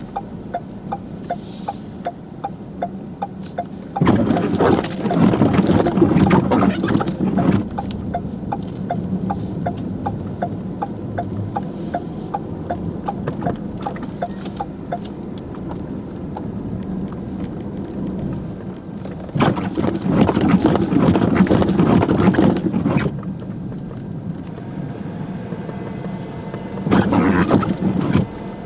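A vehicle driving on a snowy road: a steady road and engine hum with a quick regular ticking through the first half, and three loud rushing surges of noise.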